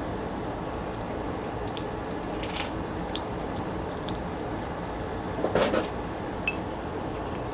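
Small clicks and clinks of scrap ceiling-fan parts being handled over a steady background noise, with a short louder clatter about five and a half seconds in.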